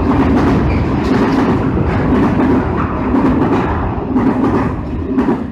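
Freight train wagons passing close by at speed: a steady, loud rumble and clatter of steel wheels on the rails.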